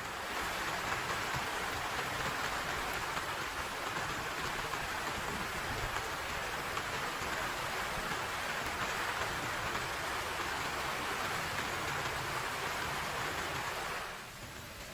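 Heavy rain falling steadily, a dense even hiss of drops. It drops suddenly to a quieter rain about a second before the end.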